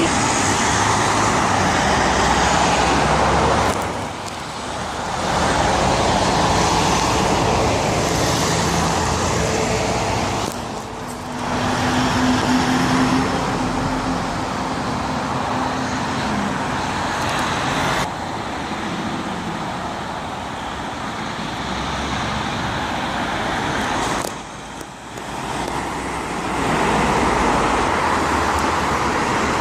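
Road traffic passing one vehicle after another, a continuous rush of engine and tyre noise with short lulls about four, eleven and twenty-five seconds in. A steady low hum from one engine is heard for a few seconds in the middle.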